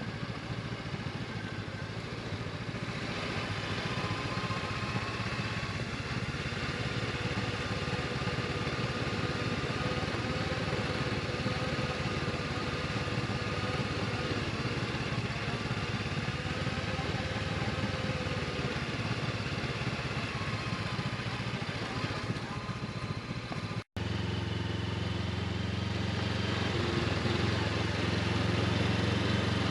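Honda CB500X parallel-twin motorcycle engine running under way, under a steady rush of noise. It breaks off abruptly about three-quarters of the way through and comes back as a lower, steadier engine note.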